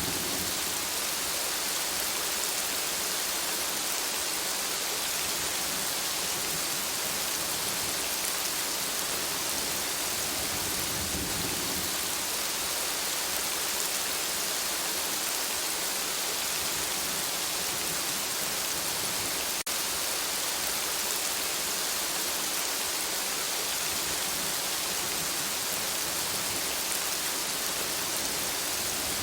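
Steady rain falling, an even hiss without let-up, with a brief click about two-thirds of the way through.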